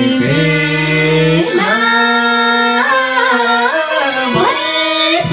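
A Nepali song: a singer holds long, drawn-out notes that bend and glide, with instrumental accompaniment underneath.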